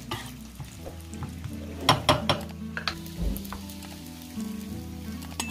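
Cashews and raisins sizzling in hot ghee in a pan while being stirred with a spoon, with a few sharp clinks of the spoon against the pan about two and three seconds in.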